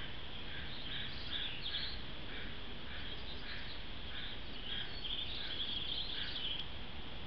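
Small birds chirping in short notes about twice a second, with a busier run of higher notes late on, over a steady background hiss.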